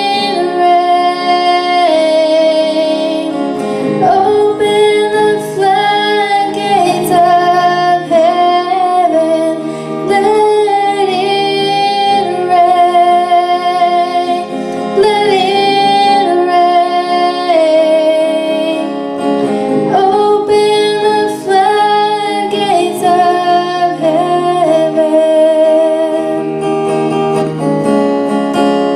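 Worship song: a female voice singing a melody over acoustic guitar accompaniment.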